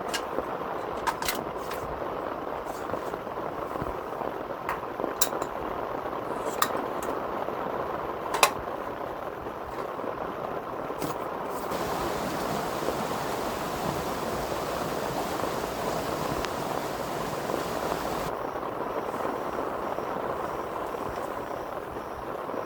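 Heavy rain falling steadily on a tent, with scattered sharp drip impacts. About halfway through, a brighter hiss joins for around six seconds.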